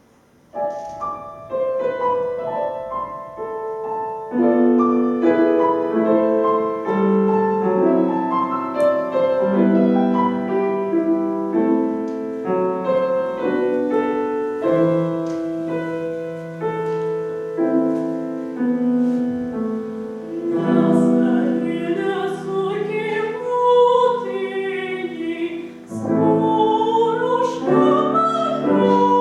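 Piano plays an introduction, then a female voice starts singing over the piano about 21 seconds in, in a classical style with vibrato.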